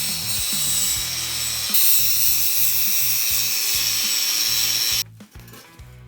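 Power tool running against metal to take rust off, a steady high-pitched hiss that cuts off suddenly about five seconds in. Background music with a bass line plays throughout.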